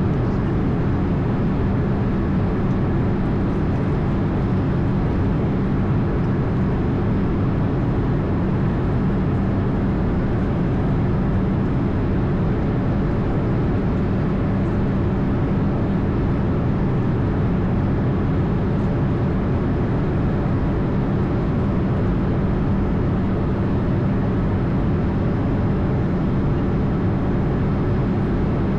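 Airbus A220's Pratt & Whitney PW1500G geared turbofan engines and airflow heard from on board: a steady, unchanging drone with a low hum under it.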